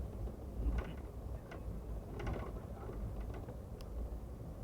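Amtrak Superliner car rolling along the track, heard from inside as a steady low hum, with scattered light clicks and creaks from the car about every second.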